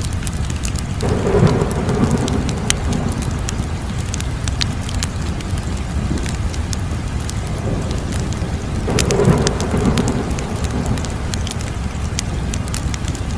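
Wood fire crackling, with scattered sharp pops over a steady low rumble. Two swells of rushing flame noise rise and fade, one about a second in and another about nine seconds in.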